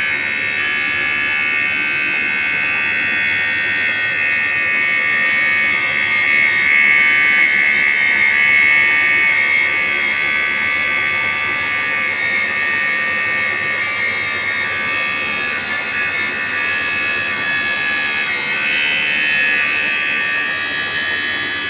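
Metal lathe running with a makeshift tool cutting, a steady high-pitched whine that swells a little about six to nine seconds in.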